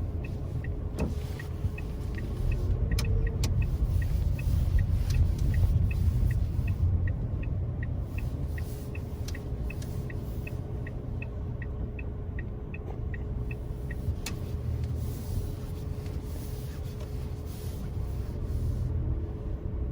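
A car driving along a road, with a steady low road-and-tyre rumble. A light, even ticking runs over it at about two ticks a second and stops about fourteen seconds in. A few faint knocks are heard along the way.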